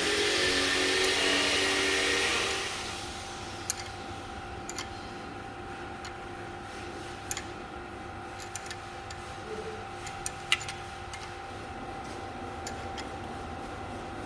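A steady machine whirr that cuts off about two and a half seconds in, followed by scattered light metallic clicks and taps of hand tools and a tensioner adjusting tool on the timing chain parts of a BMW N63 V8 engine, over a low steady hum.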